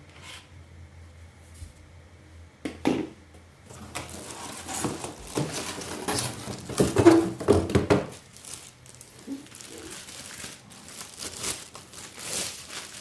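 Packaging crinkling and rustling as vacuum-cleaner parts are unwrapped and handled, with a couple of sharp knocks early on and the loudest rustling about halfway through.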